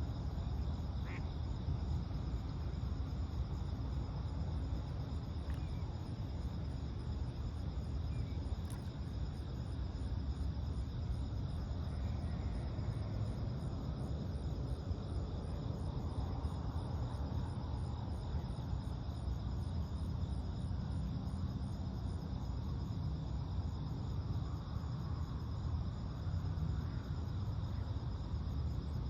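Night insects, crickets, trilling steadily over a constant low rumble of outdoor ambience, with a few faint short bird chirps scattered through.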